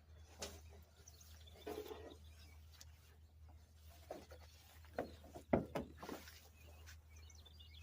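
Scattered light knocks and clicks of handling and work, the loudest a sharp knock about five and a half seconds in, over a low steady hum.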